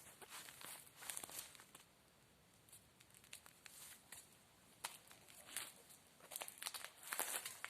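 Faint, intermittent rustling and crackling, with a cluster of sharper crackles near the end.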